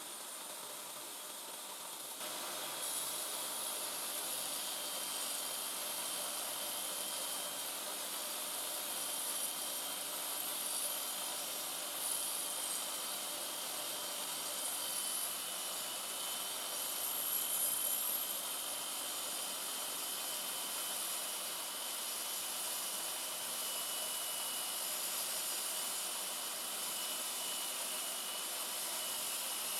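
Homemade belt grinder running at speed: a steady high whine over hissing noise, stepping up in loudness about two seconds in.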